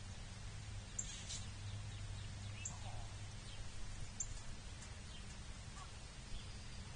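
Wild birds calling: three short, very high chip notes about a second and a half apart, with fainter slurred bird notes between them, over a steady low hum.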